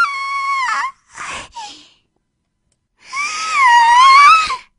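A voice actor's tiny, squeaky scream in a Fluttershy-style voice: a very high, wavering squeal that ends about a second in. After a short breathy sound and a pause, a second, longer high squeal rises and falls, then stops near the end.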